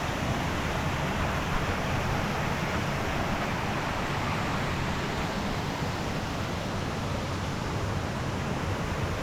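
Steady rushing of a fast mountain stream, an even wash of water noise that doesn't change.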